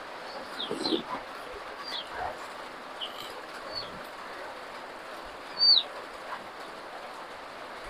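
Small birds chirping: short chirps that fall in pitch, scattered through, with the loudest about three-quarters of the way in. Soft chewing sounds come in near the start.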